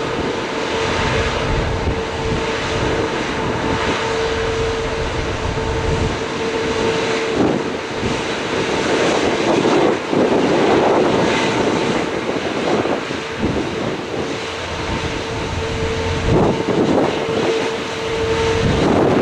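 Jet airliner engines running steadily with a held whine, mixed with wind rumbling on the microphone.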